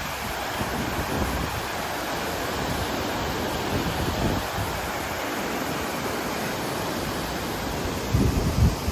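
Mountain river water rushing steadily in an even, unbroken hiss. Near the end, gusts of wind buffet the microphone with low rumbles.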